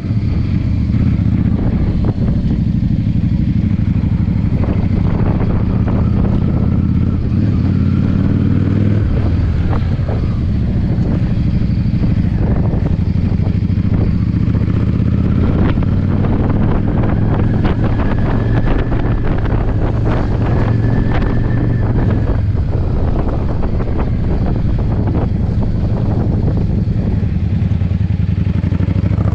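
Yamaha V-Star V-twin cruiser engine running steadily at road speed, with frequent short buffets of gusty wind on the microphone.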